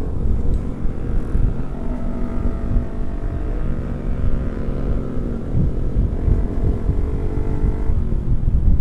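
Yamaha R15 V3 motorcycle engine running while riding, its pitch shifting with speed, over a low rumble of wind on the microphone.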